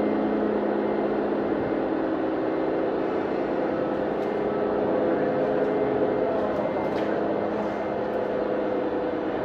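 Radio-controlled model truck or machine running with a steady, even hum made of several held tones.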